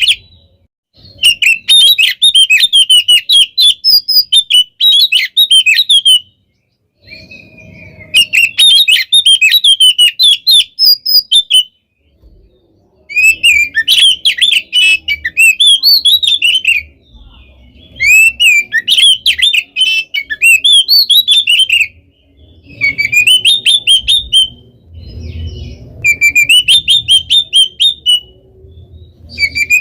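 Oriental magpie-robin (kacer) in full song: loud phrases of rapid, densely packed notes, each a few seconds long, broken by short pauses.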